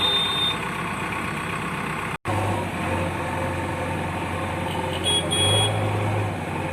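Heavy diesel vehicle engine running steadily at low revs, cut off briefly about two seconds in. About five seconds in, two short high-pitched beeps sound in quick succession.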